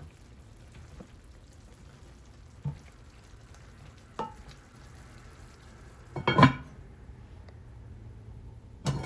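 Seasoned chicken simmering in a skillet with a faint sizzle. A stirring spoon or utensil knocks and clinks against the metal pan a few times, with a louder clatter about six seconds in.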